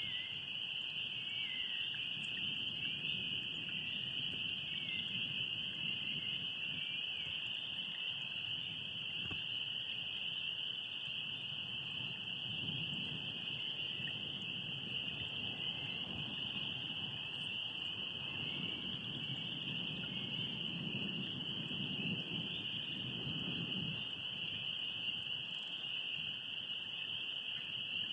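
Night lake ambience: a steady, high-pitched chorus of insects trilling without a break. Underneath it, a lower chorus of frogs croaking swells louder a couple of times.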